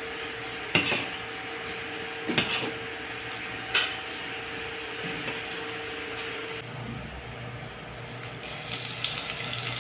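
Chicken neck pieces sizzling steadily in hot oil, with a few light clinks of a utensil against the pan.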